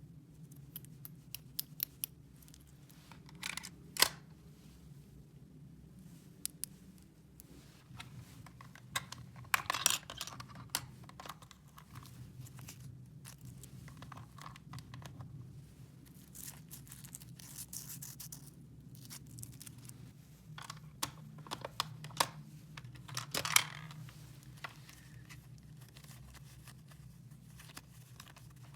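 Small plastic toy pieces being handled: scattered clicks and taps, with a few short bursts of rustling and scraping, over a low steady hum.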